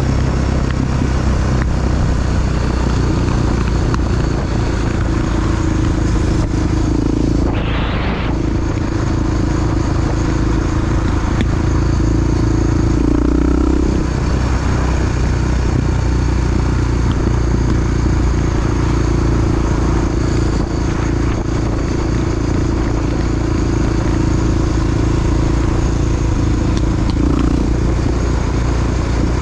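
Honda XR dual-sport motorcycle's single-cylinder four-stroke engine running steadily under way, heard from on the bike, with a short hiss about eight seconds in.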